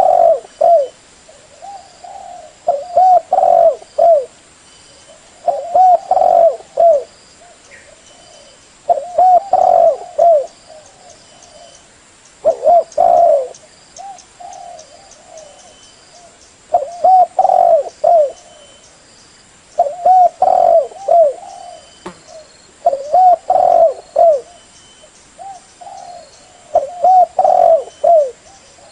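Female spotted dove cooing: short phrases of several low notes, repeated about every three to four seconds. This is the hen's call used to excite and lure wild male doves.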